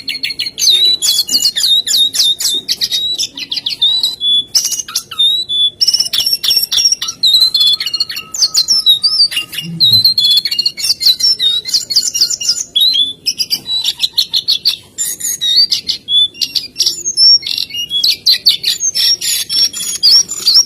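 Brown-chested jungle flycatcher (SRDC, jongkangan) singing incessantly: long runs of fast chattering trills broken by clear, high whistled notes, with only brief pauses.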